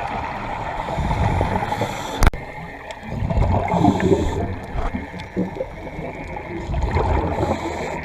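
Water gurgling and bubbling, typical of scuba divers' exhaled air bubbles heard underwater, with a sharp click about two seconds in.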